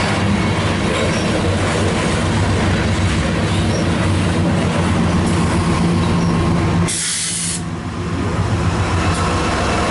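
Loaded BNSF covered-hopper grain train rolling past, steel wheels clattering on the rails over a steady low diesel drone. Near the end the rear distributed-power GE ES44AC locomotives come past. There is a short hiss about seven seconds in.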